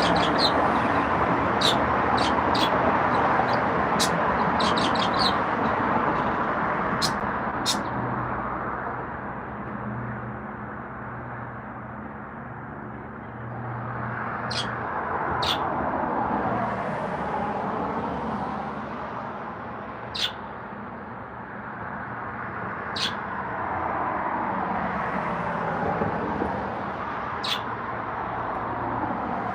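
Pet birds giving short, sharp chirps every second or two over a loud rushing noise that swells and fades several times.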